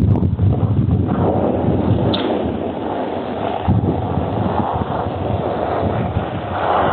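Wind buffeting the microphone in a winter storm, a loud, gusting rushing noise strongest in the low end, with a brief high squeak about two seconds in.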